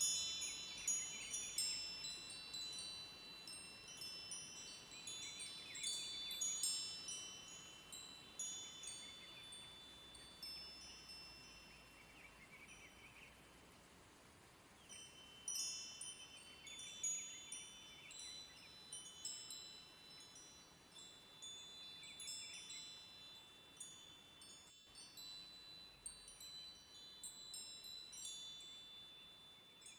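Wind chimes ringing in irregular, high-pitched strikes that thin out around the middle and then pick up again, over a faint steady rush of river water.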